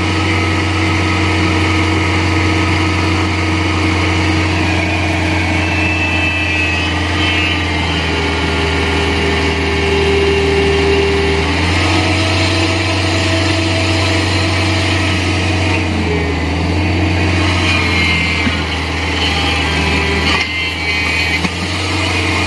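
Excavator's diesel engine running steadily, with a shift in its note about twelve seconds in.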